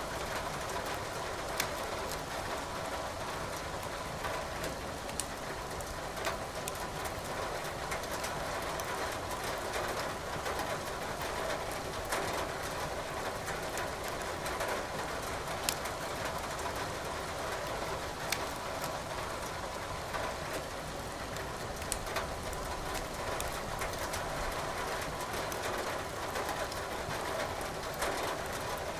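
Wood burning in a fireplace, crackling with a sharp pop every few seconds, over a steady hiss of falling rain.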